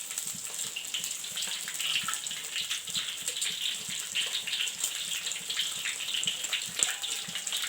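Batter-coated pineapple pieces deep-frying in hot oil in a wok: a steady sizzle with many small crackles.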